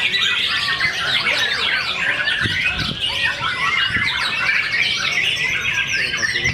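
Dense chorus of many caged songbirds singing at once, a continuous tangle of quick overlapping chirps and trills.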